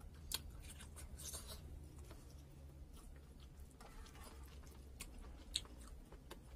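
Faint close-miked eating sounds: a person chewing chicken and rice, with sharp wet mouth clicks and fingers scraping rice on the plate. Two clicks stand out, about a third of a second in and near the end.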